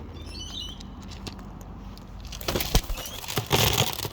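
Wild parrots' wings flapping in two loud rustling bursts, about halfway and near the end, with faint high chirps from small birds about half a second in.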